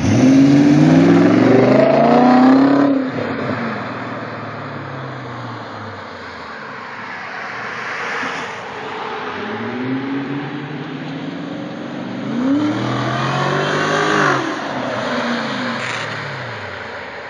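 BMW E38 V8 exhaust, the engine note climbing in pitch for about three seconds from a loud start, then falling away. A second, softer rise and fall in engine speed comes about ten to sixteen seconds in.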